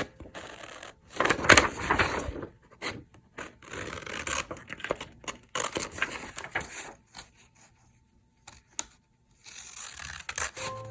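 Paper and stationery being handled on a desk: irregular scraping, rubbing and rustling, loudest for about a second starting a second in, then a short pause near the end.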